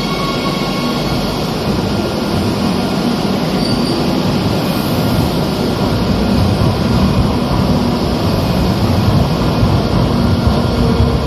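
Madrid Metro train running through the station: a continuous rail rumble with faint steady high tones over it, growing a little louder as it goes.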